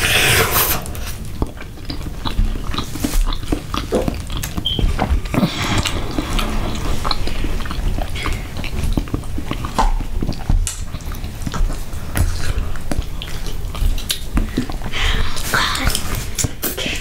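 Close-miked eating: chewing, lip smacks and wet mouth sounds as spoonfuls of food are eaten, with scattered sharp clicks of a metal spoon against a glass bowl.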